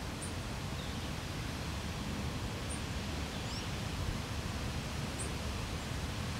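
Strong wind buffeting the microphone: a steady low rumble under an even hiss. A few short, faint high chirps sound about every two and a half seconds.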